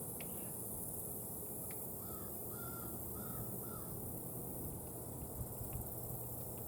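Scattered single sharp taps of a young red-bellied woodpecker pecking at a pecan nut, a few seconds apart. About two seconds in, another bird gives four short calls in quick succession.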